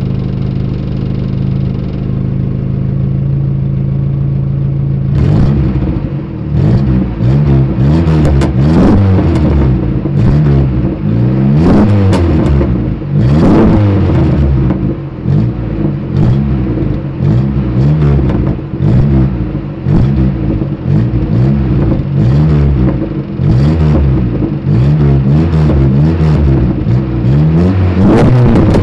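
Hindustan Contessa's 1800 cc petrol engine breathing through a homemade stainless-steel straight-pipe exhaust, idling steadily, then revved over and over from about five seconds in, in quick rising and falling blips.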